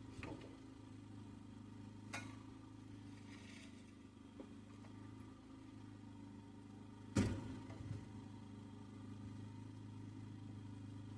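Faint steady low hum with a few sharp clicks and knocks of hardware being handled: one just after the start, one about two seconds in, and the loudest about seven seconds in.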